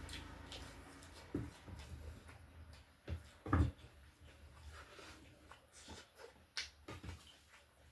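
Close-mic'd eating sounds: chewing and lip smacks over chicken, scattered soft clicks, with a couple of low soft thumps about a second and a half and three and a half seconds in.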